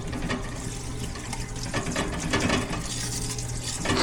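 Parts washer running: a steady pump hum with a stream of cleaning fluid pouring and splashing.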